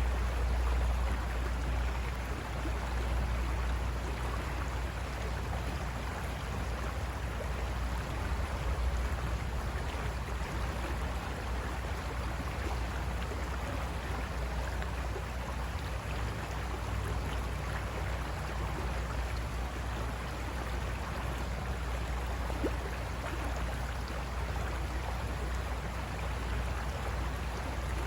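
River water rushing steadily over rocks, an even rush with a steady low rumble underneath.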